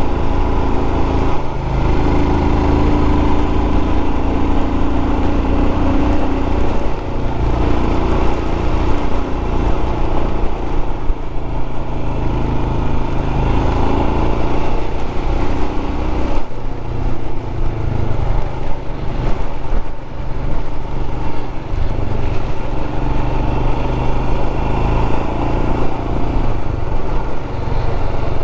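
Royal Enfield 411 cc single-cylinder motorcycle engine running under way, its pitch rising and falling with the throttle, over a steady rush of wind and rain noise.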